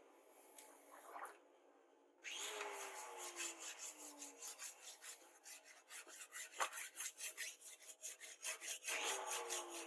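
Rapid, even rasping strokes of a hand tool, several a second, starting about two seconds in.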